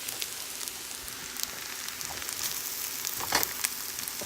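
Chicken fried rice sizzling in a hot pan, a steady hiss with fine crackles, and a louder clatter of the stirring utensil about three seconds in.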